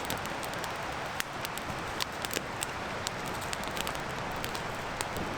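Campfire crackling: irregular sharp pops and ticks over a steady hiss.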